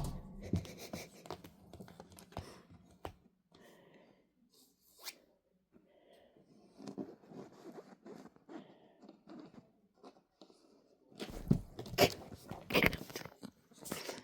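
A Maine Coon kitten at play: scattered scratching and rustling from its claws, with a louder flurry of scraping near the end.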